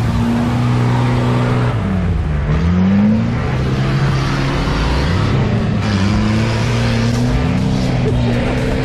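Engine of an off-road 4x4 working under load, its revs dropping and climbing sharply about two to three seconds in, then rising slowly again.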